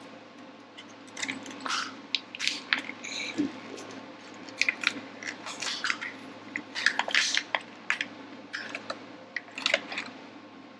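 Small hardware parts being rummaged through and handled: an irregular run of short clicks, clinks and crunchy rattles, a few with a brief metallic ring.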